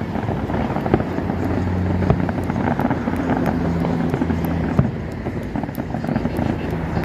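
Fireworks crackling and popping in a dense stream of small sharp reports over a continuous rumble, with a steady low hum underneath that holds for a few seconds at a time.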